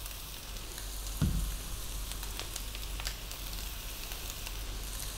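Sliced beef sausages, onion and celery sizzling gently in oil in a wok, a steady frying hiss. A soft thump about a second in.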